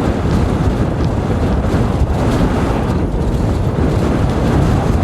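Strong wind buffeting the microphone, a loud, steady low rush.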